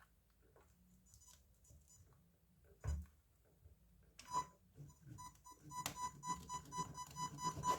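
A plug knocks about three seconds in; a couple of seconds later the RC car's electronics start a high electronic beeping, pulsing rapidly and growing louder and busier toward the end.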